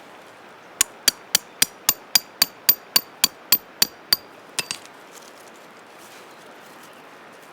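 Hammer striking metal in a quick, even run of about a dozen blows, about four a second, each with a bright ring, ending in two lighter taps.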